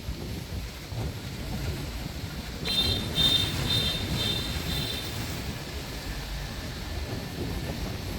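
Steady traffic rumble with wind buffeting the microphone on an open-top bus, and a shrill vehicle horn beeping about five times in quick succession near the middle.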